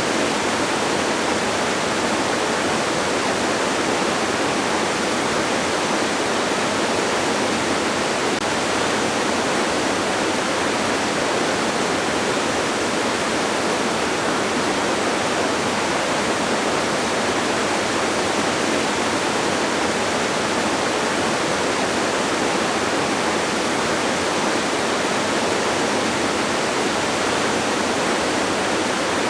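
Steady, even rushing of a distant waterfall, a constant hiss-like roar with little deep rumble.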